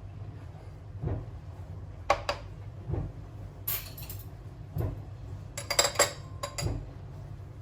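Dishes and cutlery being handled: a series of sharp clinks and knocks, bunched together about six seconds in, with soft low thuds in between.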